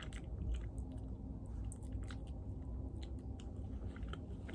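A person chewing food with the mouth closed: soft, faint wet clicks and smacks scattered throughout.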